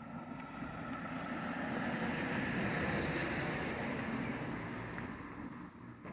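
A car driving past: the rush of tyres and engine swells to a peak about halfway through, then fades away.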